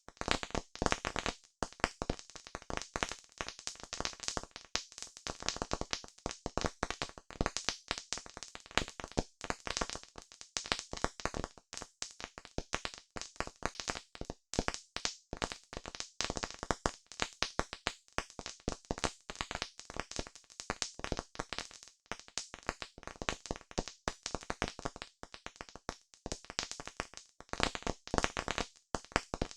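Wood campfire crackling: a dense, irregular run of sharp pops and snaps.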